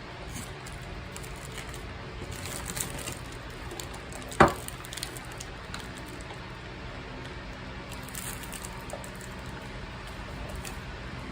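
Faint handling noises of small plastic parts, with one sharp click about four seconds in, over a steady low hum.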